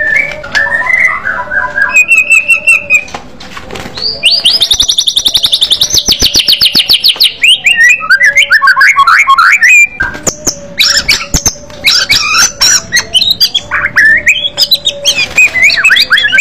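White-rumped shama singing loudly: varied whistled phrases, a long rapid trill of repeated notes from about four to seven and a half seconds in, then fast, jumbled notes, with sharp clicks among them.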